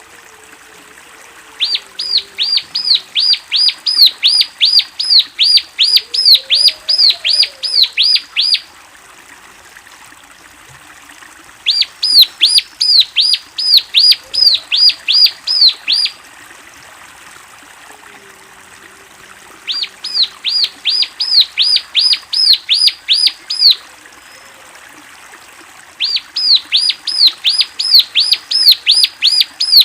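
Ciblek (bar-winged prinia) singing: bouts of a loud, rapidly repeated sharp chirping note, about three notes a second, each bout lasting several seconds with short pauses between, four bouts in all.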